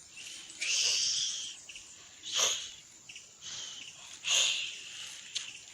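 Wild birds calling: three loud, high-pitched calls about two seconds apart, the first held for about a second, over a faint background hush.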